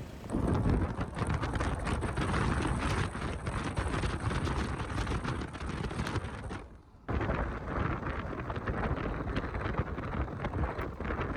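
Strong wind buffeting the microphone in gusts, a dense roar with crackling peaks. It drops out briefly about seven seconds in, then resumes.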